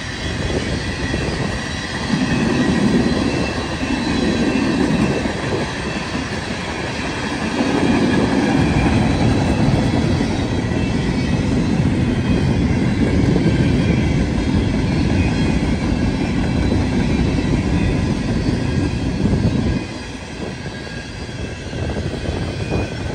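Freight cars rolling past close by: a steady rumble and rattle of steel wheels on rail, with a faint steady high squeal above it. The rumble gets quieter about twenty seconds in.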